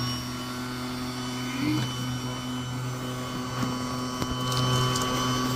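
Numatic Henry cylinder vacuum cleaner running steadily: a motor hum with a thin high whine over it.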